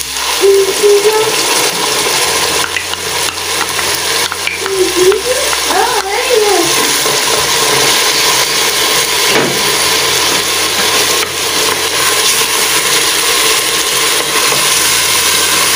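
A Peruvian aderezo of chopped onion, garlic, cumin and ají amarillo sizzling steadily in hot oil in a pot.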